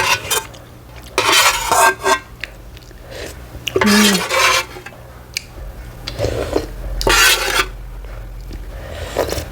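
Eating from a bowl of ramen: utensils clinking and scraping against the bowl, with three longer noisy bursts of about a second each.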